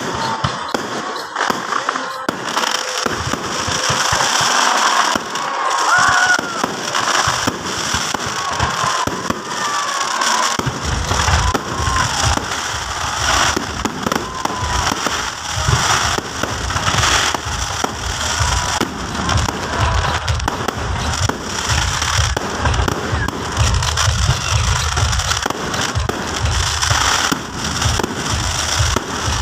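Aerial fireworks display: a continuous barrage of bangs and crackling, joined about ten seconds in by rapid deep booms.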